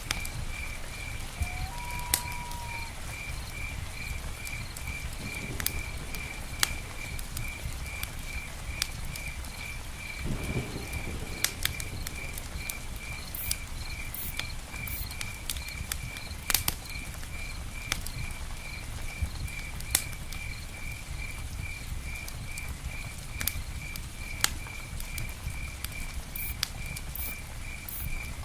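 Campfire crackling with light rain pattering on a tent, over a low rumble. An insect chirps in a steady rapid pulse, about three chirps a second, and a bird gives one short whistle about two seconds in.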